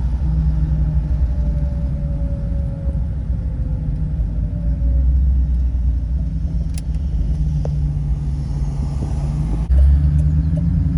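Towing vehicle's engine and road rumble, steady and low, with a sudden jump in loudness near the end.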